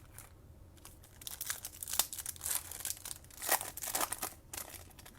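Trading-card pack wrapper being torn open and crinkled: a run of crackling starting about a second in and fading near the end, with a couple of sharper snaps.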